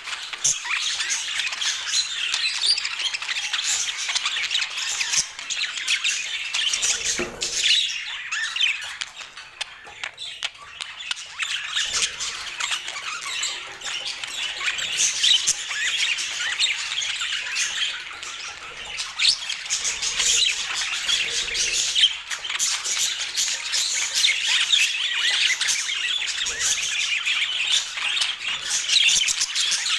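Many budgerigars chattering and squawking together, a dense unbroken stream of short high chirps and calls. The chatter thins out for a few seconds about a third of the way in, then picks up again.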